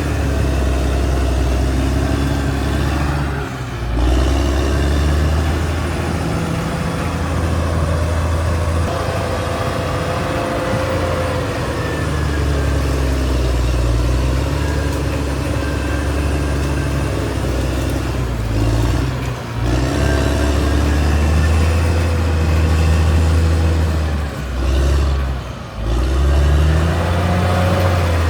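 Caterpillar D6R XL bulldozer's diesel engine running under load, its pitch rising and falling as it works. The sound dips briefly a few times, about 4, 19 and 25 seconds in.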